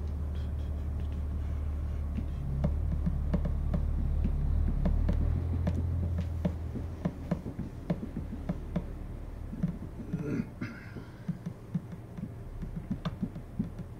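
A steady low hum that drops off about six seconds in, with many light, irregular clicks throughout.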